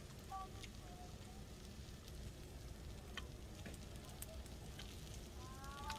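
Wood campfire crackling, with scattered sharp pops over a low steady rumble. A few short, high calls sound faintly near the start and near the end.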